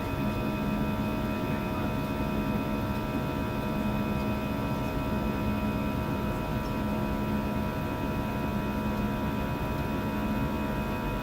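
Steady cabin noise of an Airbus A320-216 powered by CFM56 turbofans, heard from a forward window seat: an even rush with a low drone and several thin, steady engine tones, no change in level.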